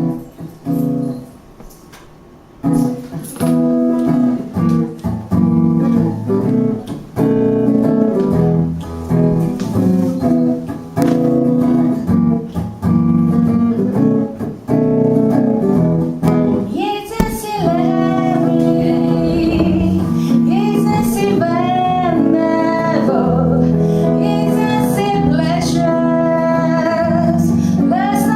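A jazz-style guitar plays a quiet intro for about fifteen seconds. A woman then starts singing over it.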